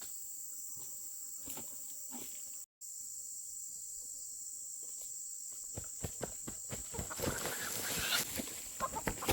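Insects chirring steadily at a high pitch, the sound cutting out completely for a moment about three seconds in. From about six seconds in, a growing clatter of irregular knocks and rustling rises over the insects.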